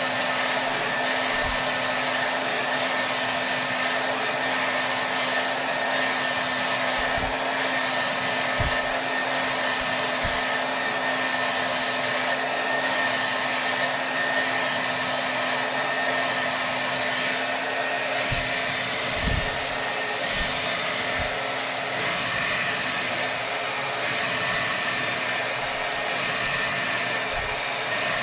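Hair dryer running steadily on full power: a continuous rush of air with a steady motor hum and a faint high whine, and a few brief low thumps.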